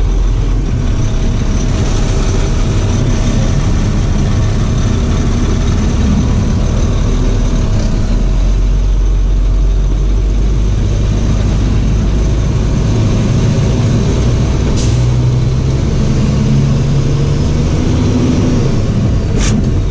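Box truck's engine and road noise while driving, running steadily, with the engine note shifting about two thirds of the way through. There are two brief clicks, one past the middle and one near the end.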